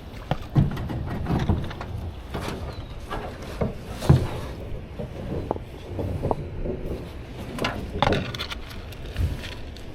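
Irregular knocks, bumps and scrapes of a canoe and its paddle being handled against the bank, the sharpest knock about four seconds in.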